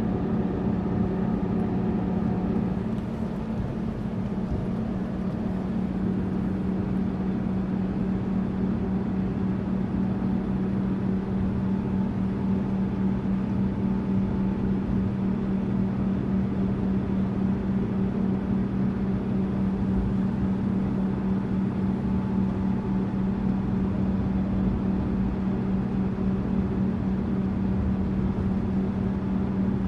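Tourist bus engine and road noise heard from on board: a steady low drone with a constant hum and a wash of road noise, dipping slightly a few seconds in.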